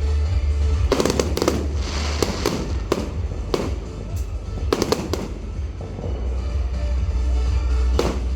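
Fireworks bursting in a rapid, irregular series of sharp bangs, about a dozen, with show music playing underneath.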